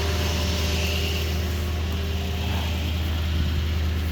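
Pickup truck running, heard from inside the cab: a steady low engine hum with an even hiss of air and road noise.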